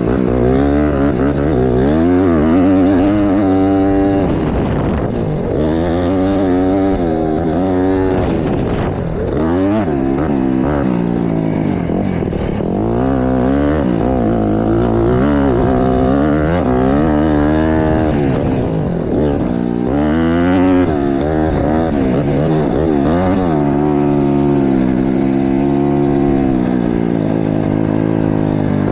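Honda CRF150RB's single-cylinder four-stroke engine revving hard and backing off again and again as the motocross bike is ridden, its pitch climbing and dropping every second or two.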